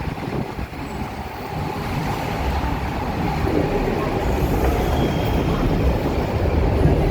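Docklands Light Railway train running on the track, a steady rumble that grows louder over the last few seconds.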